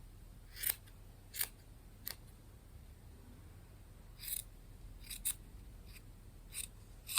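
Scissors snipping, about eight short, irregular cuts, as scraps of wadding are cut up for a robin's stuffing.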